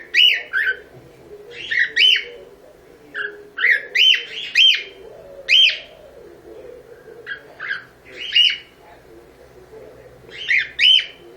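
Pet cockatiel chirping, short rising-and-falling calls in clusters of two or three, repeating every second or two.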